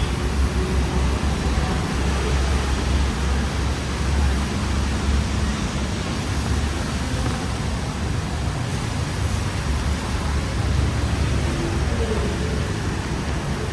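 Busy road traffic: a steady low rumble of engines and tyres with an even hiss over it.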